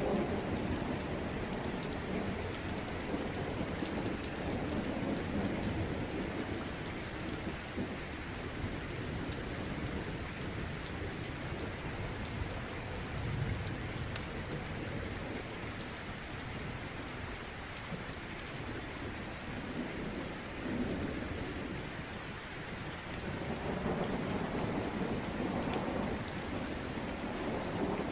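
Steady heavy rain with low rolls of thunder swelling and fading several times, and small sharp crackles from a wood fire.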